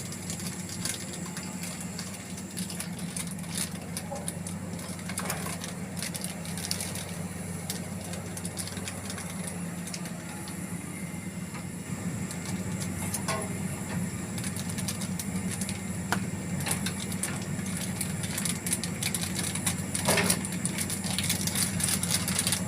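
An engine idling steadily, with scattered clicks and knocks throughout.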